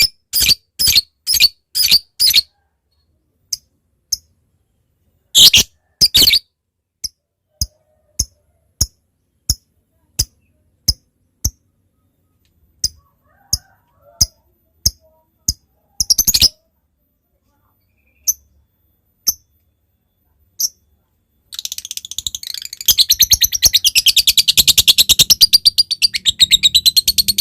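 Lovebird calling in short, sharp chirps ('ngetik'): a quick run at first, then single chirps spaced out with pauses. About 21 seconds in it breaks into a long, rapid chattering trill ('ngekek'), the full song of a lovebird in form that is used as a lure to set other lovebirds singing.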